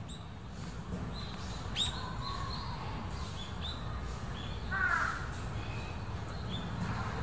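Outdoor birds calling: scattered short, high chirps, with one louder, harsher call about five seconds in, over a steady low background rumble.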